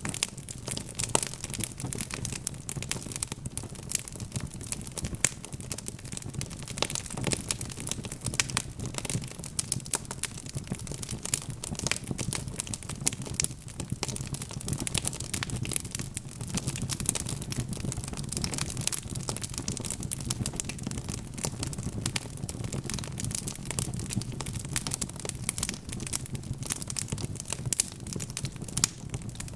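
Wood fire burning in a fireplace: logs crackling and popping in a dense, irregular stream of sharp snaps, over a steady low rumble of the flames.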